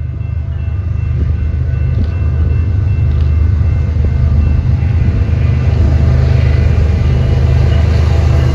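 BNSF freight train's diesel locomotives approaching, a deep engine rumble that grows steadily louder.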